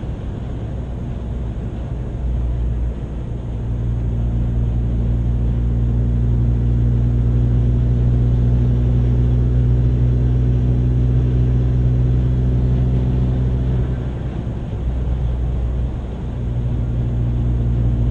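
Chevy Sonic's 1.4 turbo four-cylinder engine and road noise heard from inside the cabin at a steady cruise, a low, even drone. About fourteen seconds in it dips briefly, as if he lifted off or shifted, then settles back to the same drone.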